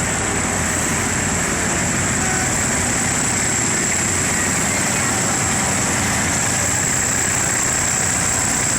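Tractor engine running steadily at low revs, an even low drone.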